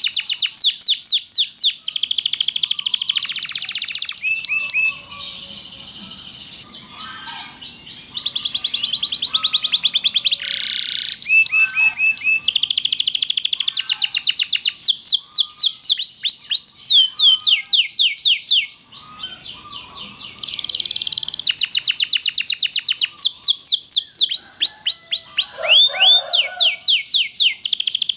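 Domestic canary singing long, fast trills, each a rapid run of repeated down-sweeping notes, broken by two short pauses about five and nineteen seconds in.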